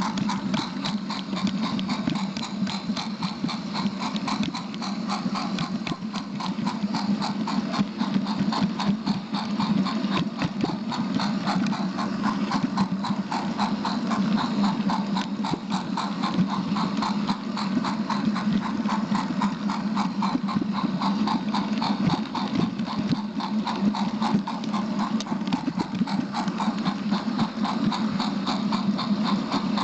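A small train running steadily around a track: a rapid, even clicking and clattering over a steady low hum.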